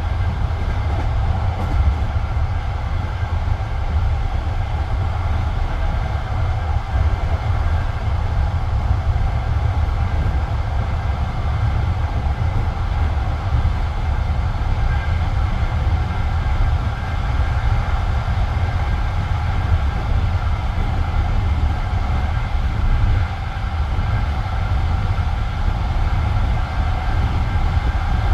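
Passenger train carriage in steady running, heard from inside: a continuous low rumble of the wheels on the track, with a faint steady whine above it.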